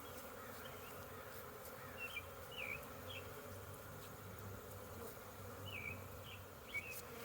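A crowd of honeybees buzzing steadily around an opened hive, with a few short high chirps scattered through.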